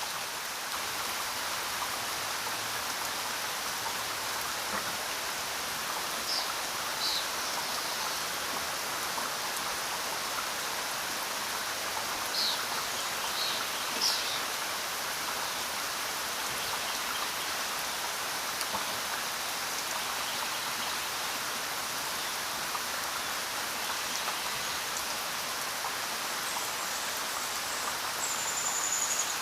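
Steady rain falling, an even hiss of drops, with a few brief high chirps about six, twelve and fourteen seconds in.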